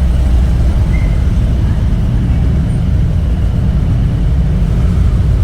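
Motorcycle engine running steadily at low revs, a loud, even low rumble.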